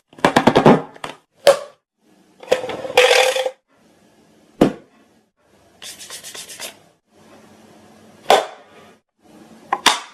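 A person making a string of short sound effects: a quick run of clicks, then scratchy rubbing hisses and single sharp clicks, each separated by a short pause.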